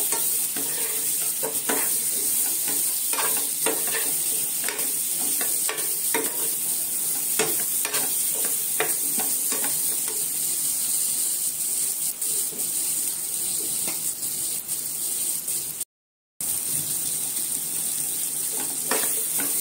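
Drumstick, potato and tomato pieces sizzling in hot oil and masala in a non-stick frying pan, with a steel spoon scraping and knocking against the pan as they are stirred. The sound cuts out completely for about half a second near the end.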